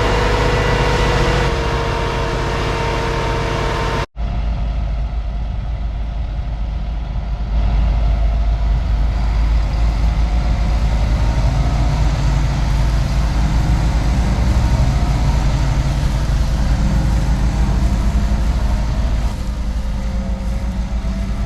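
Heavy diesel harvest machinery running steadily. An abrupt cut about four seconds in switches to another engine, which grows louder a few seconds later and runs on steadily.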